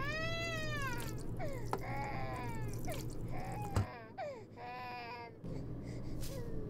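An infant crying off-screen in a series of wails, each arching up and then down in pitch. A single sharp knock comes a little over halfway through.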